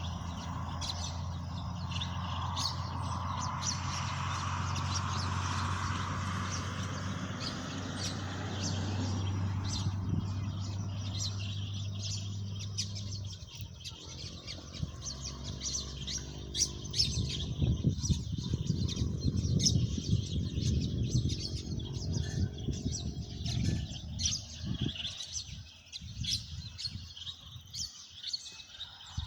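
Small birds chirping throughout. For the first half a steady low motor hum runs underneath, then stops suddenly. After that, uneven low rumbling comes and goes beneath the chirps.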